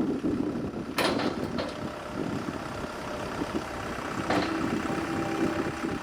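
Kubota MX5200D tractor's diesel engine running at idle, with two sharp knocks, about one second in and again past four seconds.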